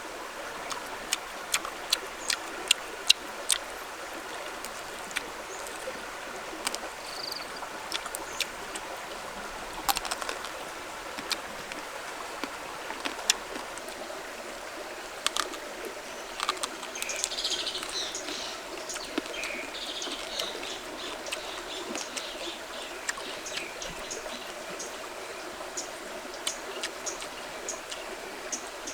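Irregular sharp clicks and taps, loudest and most frequent in the first few seconds, over a steady rush like flowing water, with birds chirping briefly in the middle.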